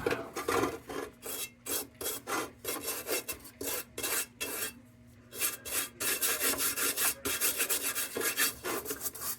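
Rapid hand scraping strokes, about three a second, rasping over the old painted sheet metal of a Dietz No.1 Blizzard lantern, with a short pause about halfway through. The strokes are knocking off caked-on dirt ahead of paint stripping.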